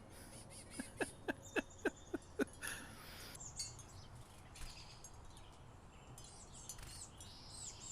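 A quick run of about seven light taps, then faint high, thin chickadee calls near the end.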